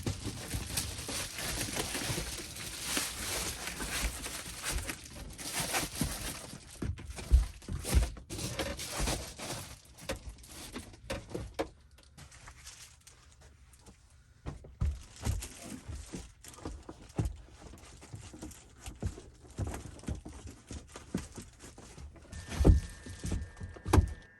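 Rustling and crinkling with scattered knocks and a few heavier thumps, as things are handled and moved around in the cramped inside of a van. A faint steady high tone starts near the end.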